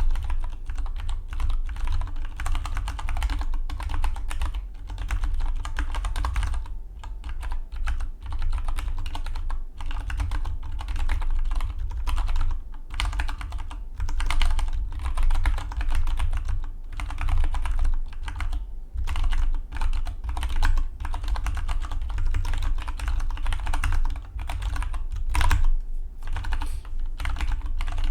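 Fast, continuous typing on a Dygma Defy split mechanical keyboard: a dense run of keystrokes with a few brief pauses.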